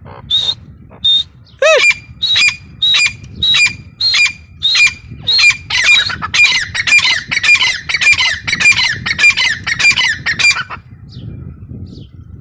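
Grey francolin calling: a loud run of repeated notes that start about a second and a half apart, speed up to about three a second, then stop abruptly near the end. The video offers it as a female's call.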